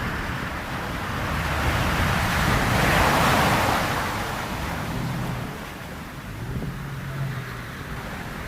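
Ocean surf rushing, swelling to a peak about three seconds in and then easing off, over a low rumble.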